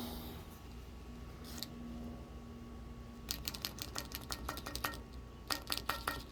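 Paint marker worked against a metal hydraulic cylinder part: two runs of quick, sharp clicks and scratches, the first starting about three seconds in and the second near the end.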